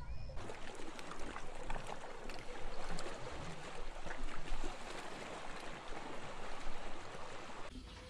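Underwater reef ambience: an even watery hiss full of fine crackling clicks. It starts abruptly just after the beginning and cuts off just before the end.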